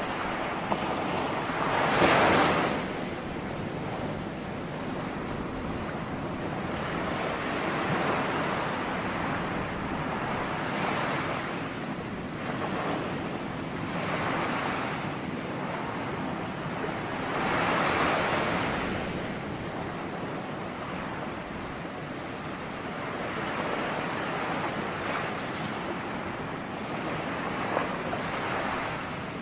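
Ocean waves breaking on a shore: a steady wash of surf, with louder surges as individual waves break about 2, 8, 14 and 18 seconds in.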